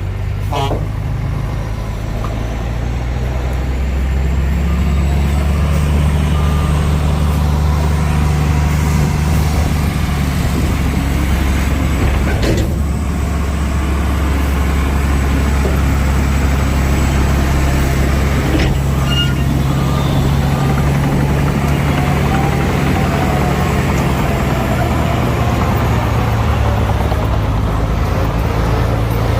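Heavy diesel earthmoving machine's engine running steadily under load, a deep drone that grows louder over the first few seconds. Two brief sharp knocks sound partway through.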